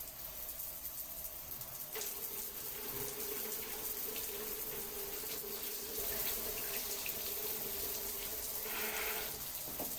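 Water running steadily with a constant hiss and scattered small drip-like clicks. A steady low tone joins in about two seconds in and stops just before the end.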